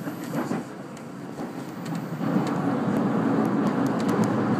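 Running noise of a JR 313-series electric multiple unit heard inside the passenger cabin: a steady rumble of wheels on rails that grows louder about two seconds in, with a few faint clicks.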